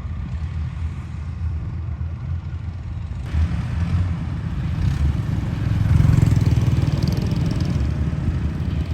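Combine harvester's diesel engine running steadily with a low rumble, getting louder around six seconds in.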